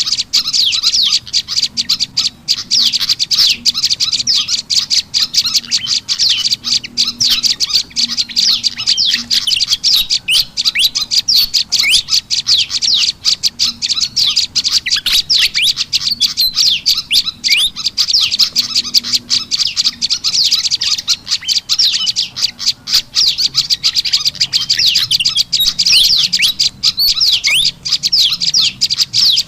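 Rapid, unbroken chirping and chattering of small songbirds: a bird-lure call track mixing prenjak lumut calls with the busy chatter of a pied fantail (kipasan ribut), played to draw wild birds in.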